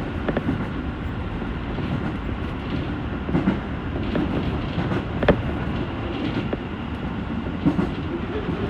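Toei Shinjuku Line electric train running along the track with a steady rumble, and a few sharp clacks of the wheels over rail joints.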